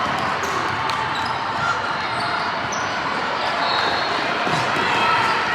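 Basketball bouncing on a gym court during a game, over a steady haze of gym noise.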